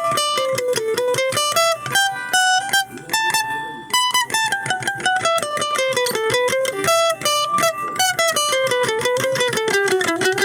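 Guitar played through a small amplified speaker box, picking a quick run of single notes. The melody steps down and back up several times.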